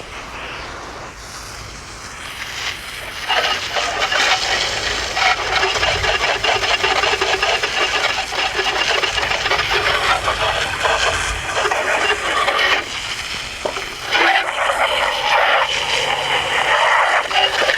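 Water spraying hard and splashing as an old bird feeder is rinsed out. The spray builds over the first few seconds, then holds steady with a brief let-up about two-thirds of the way in.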